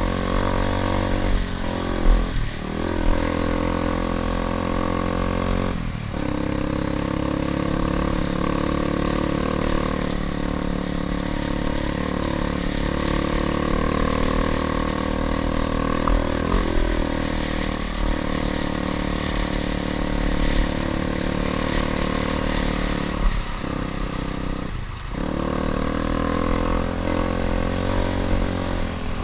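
Dirt bike engine running under way, its note steady but dipping briefly and picking back up about five times.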